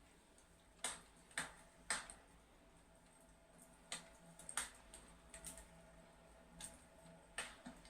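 Fireplace crackling: soft, irregular snaps and pops, three louder ones in the first two seconds and a scattering of others later.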